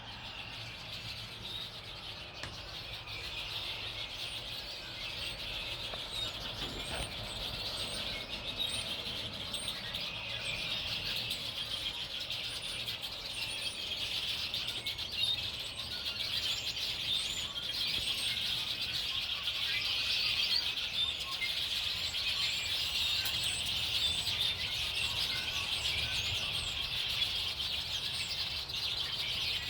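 Many small birds chirping at once in a dense, continuous chorus, with scattered higher, thinner chirps above it.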